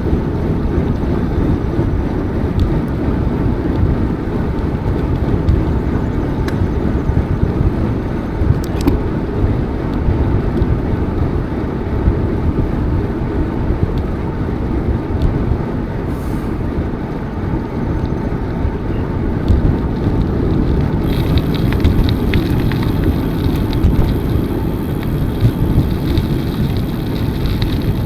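Steady rumble of riding a bicycle: wind buffeting the microphone and the tyres rolling. A higher hiss joins it about three quarters of the way through.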